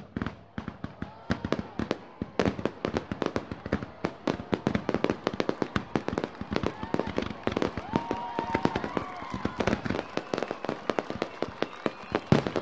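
Fireworks display: a dense, rapid string of bangs and pops, several a second, going on without a break.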